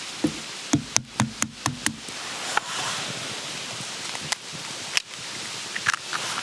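A quick run of about seven sharp knocks and clacks of hard objects in the first two seconds, then a few scattered clicks, over a steady hiss.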